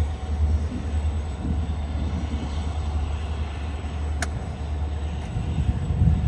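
Diesel freight train passing, with a steady heavy low rumble and one sharp click about four seconds in.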